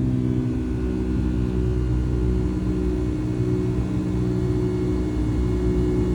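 Boeing 757-200 jet engines heard from inside the passenger cabin during the climb after takeoff: a steady drone with a low multi-tone hum over airflow noise.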